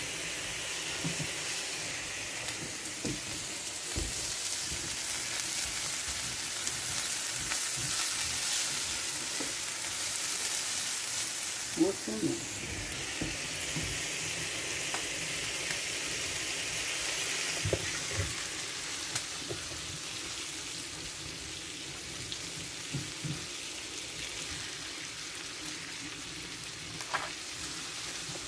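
Steak sizzling inside a closed electric waffle maker: a steady frying hiss with occasional small pops and spits from the fat and juices.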